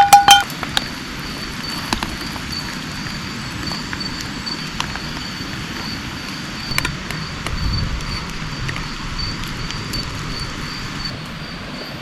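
Steady rain hiss with scattered drop ticks, under an insect trilling at one high, steady pitch. A loud, rapid run of ringing notes cuts off about half a second in, and a low rumble swells briefly around eight seconds in.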